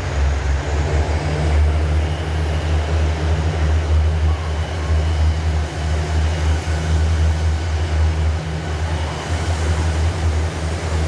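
Diesel train engine running steadily: a deep, even drone with a wash of rolling noise over it.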